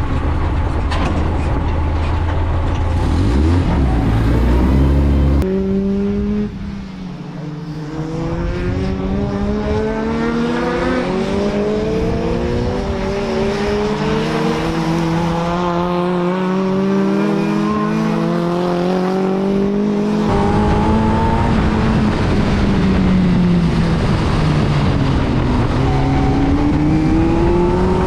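BriSCA F2 stock car engine running hard on track, its revs climbing over several seconds, then dropping back as the driver lifts, several times over. There is a heavy low drone under the first few seconds.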